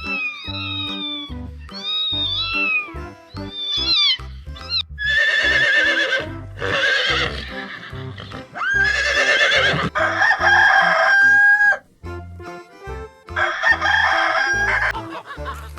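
A rooster crowing three times in long, strained calls, the middle crow ending on a held note, over background music. Shorter rising-and-falling calls come in the first few seconds.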